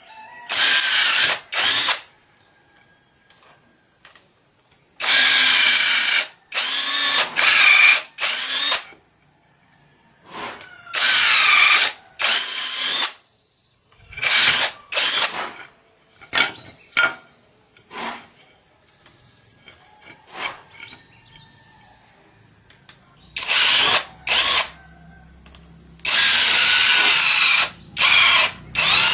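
A handheld power tool, drill-like, running in repeated short bursts of a second or two with pauses between, its pitch sliding as it speeds up and slows.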